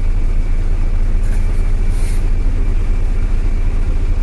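Boat's diesel engine running steadily with a loud, low rumble.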